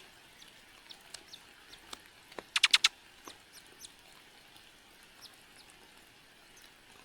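Small birds calling: scattered faint, short high chirps, and about two and a half seconds in a loud burst of about five rapid harsh notes.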